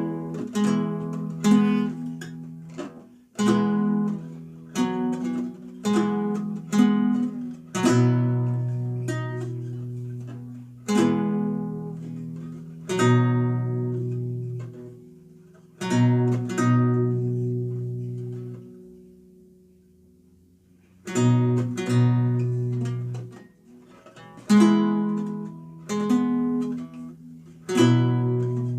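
Renaissance lute played solo: plucked notes and chords at an unhurried pace. About two-thirds through, a chord is left to ring and fade almost to silence for a couple of seconds before the playing starts again.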